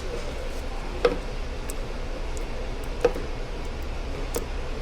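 Several light clicks and taps while parts are being handled, the two loudest about a second in and about three seconds in, over a steady low hum.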